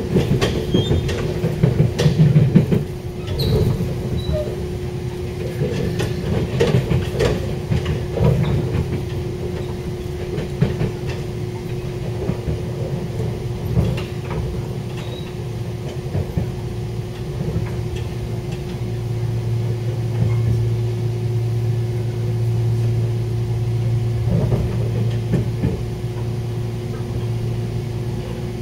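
Electric passenger train running, heard from inside the carriage: a steady rumble and a constant hum, with clicks and clatter from the wheels on the track, most of them in the first part. A lower, steady hum sets in about two-thirds of the way through.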